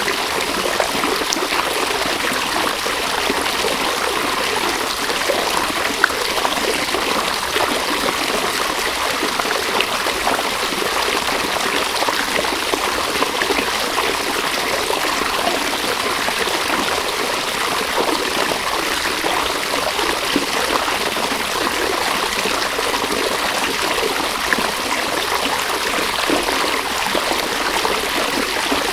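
River water flowing, a steady even rush of running water. One brief click stands out about six seconds in.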